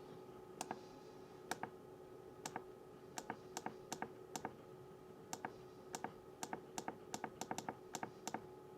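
Irregular sharp clicks, some in quick pairs, over a steady hum.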